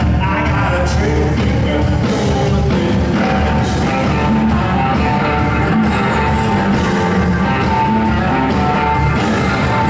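Live blues-rock band playing at full volume: electric guitars, bass, drum kit and keyboards.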